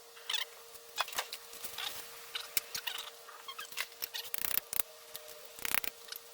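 Scattered light clicks, taps and short scratchy scrapes, with two longer scraping rubs about four and a half and six seconds in, over a faint steady hum.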